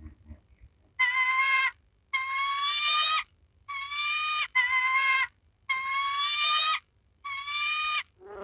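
An animal calling six times in a steady series: clear, high, steady-pitched calls, each well under a second to about a second long, with short silences between them.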